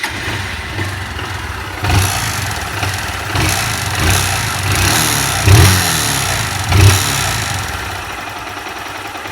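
Honda CG 160 Start's single-cylinder engine idling, with four short throttle blips, the last two the loudest. It runs with the annoying engine noise the owner is pointing out.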